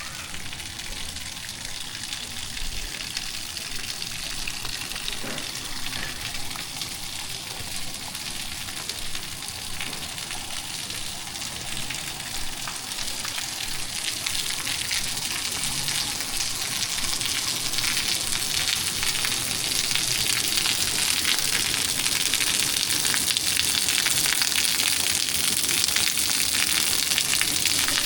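Heavy tropical rain falling, a dense steady hiss that grows louder over the second half.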